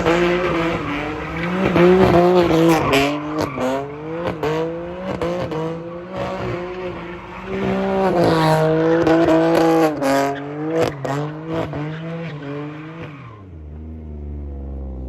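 Car engine revving up and down over and over, then dropping back to a low idle near the end.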